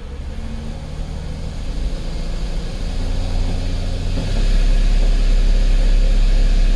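2010 Chrysler Sebring's 2.7-litre V6 engine running, its low hum growing louder and stepping up about four seconds in. The engine is still misfiring on cylinder 2 after the ignition coils were swapped.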